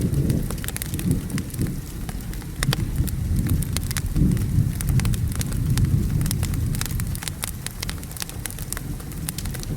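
Wood fire crackling with many sharp pops, layered over rain and a low, swelling rumble of distant thunder.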